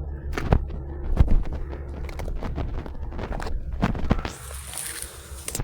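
Footsteps crunching through forest undergrowth, with twigs and branches snapping sharply a few times as someone pushes through the brush. Near the end a steady high rustling hiss comes in.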